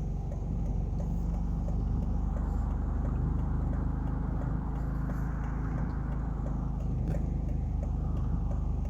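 Steady low hum of an idling car heard from inside the cabin, with a rushing wash of water that swells about two seconds in and eases near the end as a vehicle drives through deep floodwater. A light regular ticking runs about twice a second.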